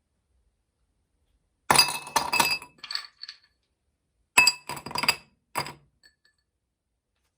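Glass clinking with a bright ringing note, in two quick bursts of several clinks each.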